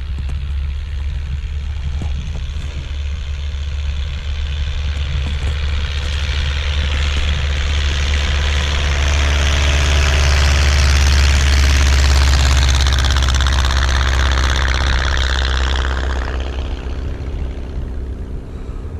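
Light propeller plane's engine running on the ice, growing steadily louder to a peak a little past the middle, then dying away near the end.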